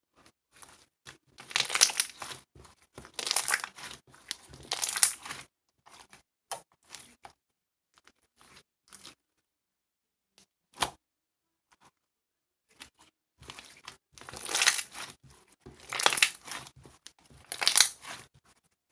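Crinkling, tearing noises of something being handled close to the microphone: three loud bursts, then a quieter stretch with one sharp click, then three more loud bursts.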